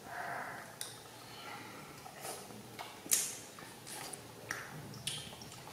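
Close-up mouth sounds of children biting, chewing and slurping juicy green orange, a run of wet smacks and short crisp bites, the sharpest about three seconds in.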